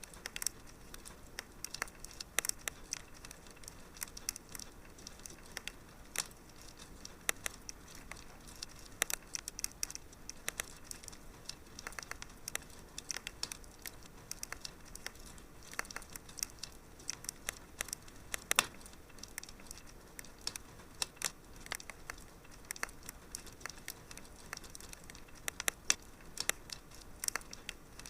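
Fireplace fire crackling: irregular small pops and snaps over a soft steady hiss, with one louder pop about two-thirds of the way through.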